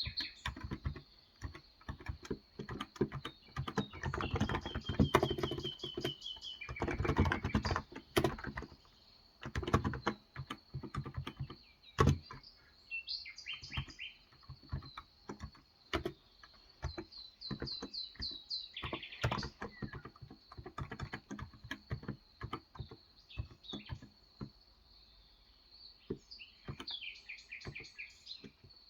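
Typing on a Cox Endeavour electro-capacitive keyboard with 35 g switches: keystrokes in irregular runs, densest and loudest about 4 to 8 seconds in. Birds chirp and trill in short phrases several times, most clearly in the second half.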